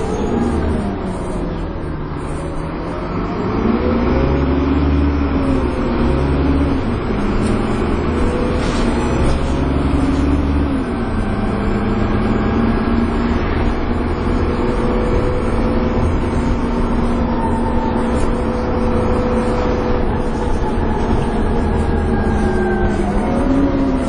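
Dennis Trident 2 double-decker bus's diesel engine heard on board, rising and falling in pitch through several gear changes in the first ten seconds, then running steadily at cruise with a steady whine over the engine note, the 'hoover' sound these buses are known for. The engine pitch rises again near the end.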